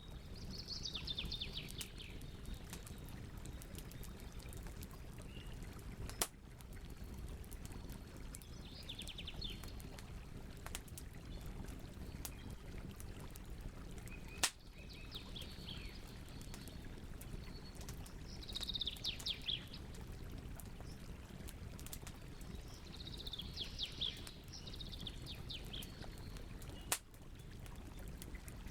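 Campfire crackling over a steady low rush, with three sharp loud pops. A bird gives short trilled calls about five times in the background.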